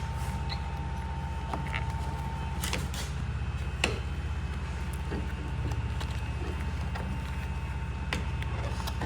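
Car trunk trim and carpet being handled and pushed back into place: a few scattered short clicks and knocks over a steady low hum. A faint high steady tone stops about three seconds in.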